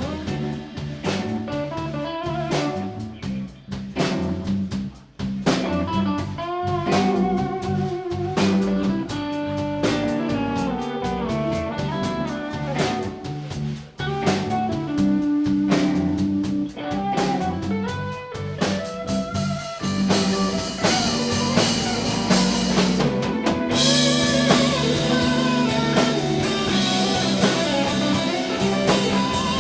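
A live band playing an instrumental passage: guitar melody lines over a drum kit, with no singing. The sound grows brighter about two-thirds of the way through.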